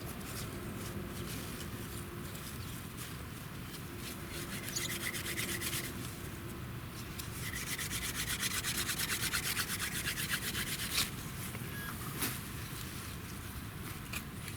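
A dry wooden branch rubbed hard and fast against plant fibres in a hole in half-rotten wood, to make fire by friction. The rapid rasping strokes come in a short spell about five seconds in, then a longer, louder spell.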